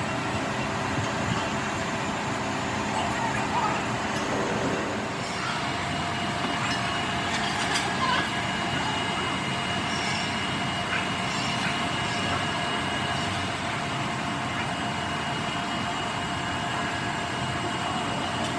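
Machinery running steadily, a dense mechanical noise with a constant whine; about five seconds in, one of the tones drops out and a higher one takes over.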